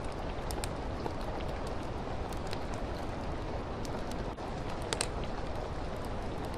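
Steady rain falling, with a wood fire crackling: scattered sharp pops throughout and a louder crackle about five seconds in.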